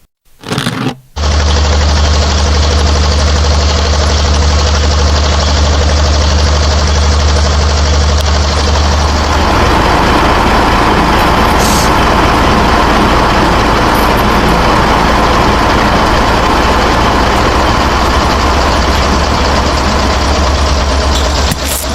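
A motor running steadily with a low hum, cutting in abruptly about a second in. About nine seconds in, the hum shifts and a rougher rushing noise grows over it.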